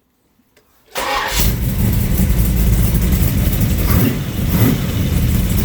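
Rebuilt 396 cubic-inch big-block Chevrolet V8 with a Comp Mutha Thumper cam, already warm, starting: about a second in it cranks briefly and catches almost at once, then runs steadily at idle.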